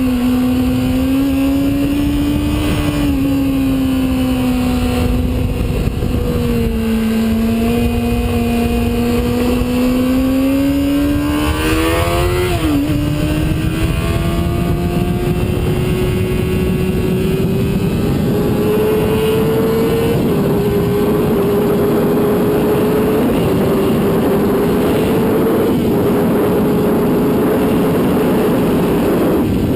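Sport bike engine running hard on a race track, its pitch sinking and rising through corners, with a sharp rise and drop about twelve seconds in and then a slow climb with small steps. A rushing noise runs underneath and grows louder in the second half.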